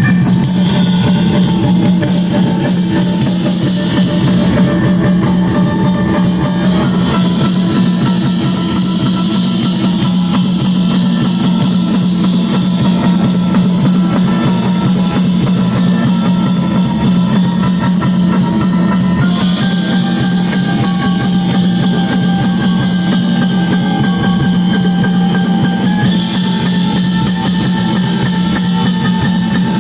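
Rock band playing live: a drum kit and electric guitars, loud and continuous, with the held chords changing about 7, 19 and 26 seconds in.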